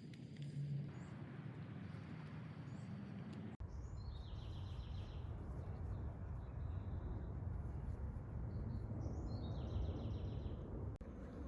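A songbird sings a short, rapid trill of repeated notes twice, about five seconds apart, over a steady low background rumble.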